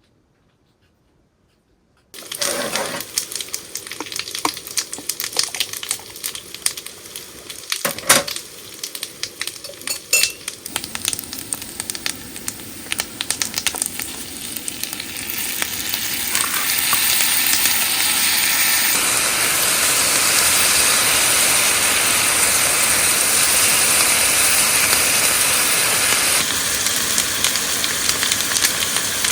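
Food frying in a hot pan: clinks and knocks of utensils and stirring at first, then a steady sizzle that grows louder from about halfway through.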